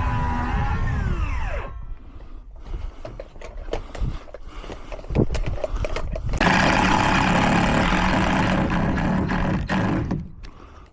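A power tool's motor winds down and stops in the first couple of seconds. A few knocks and clicks of work follow, then the tool runs hard again for about three seconds and stops.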